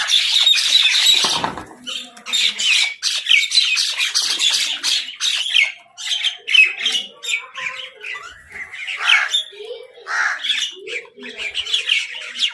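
Crows and mynahs squawking over food, a continuous flurry of short, harsh, overlapping calls with some lower calls mixed in after the middle.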